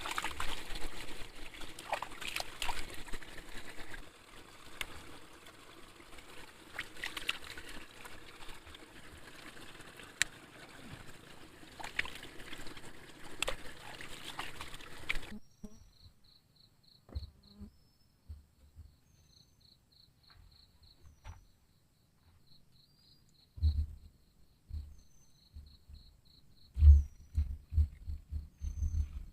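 Water trickling and splashing with scattered sharp clicks and taps, which stops suddenly about halfway through. Then there is quiet with insects trilling in a faint pulsing high chirp, and a few low thumps near the end.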